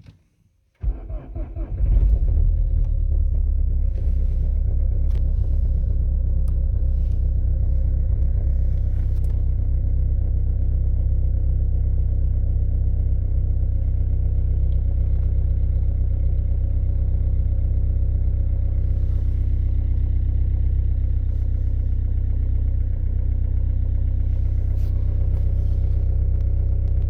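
Peugeot 308's 1.6 HDi four-cylinder turbodiesel cold-starting about a second in, catching after a brief crank, then idling steadily.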